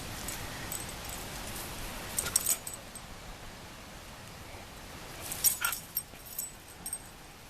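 Young Schnoodle puppies giving short yips and whimpers. They come in two brief clusters, one about two seconds in and a longer one from about five seconds.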